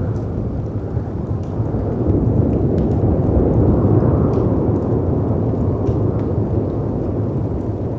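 A deep, rumbling mix of storm wind and crashing sea waves that swells for a couple of seconds and then eases. Faint, scattered crackles from a wood fire sound over it.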